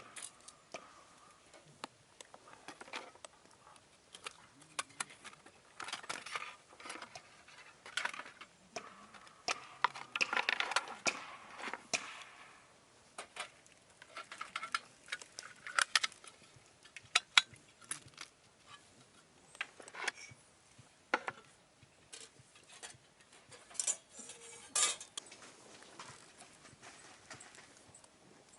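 Camp cookware and utensils being handled: scattered light metallic clinks and knocks, with a busier stretch of handling partway through.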